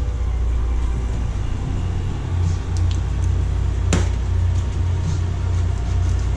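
A steady low hum, with one sharp click about four seconds in and a few fainter ticks around it.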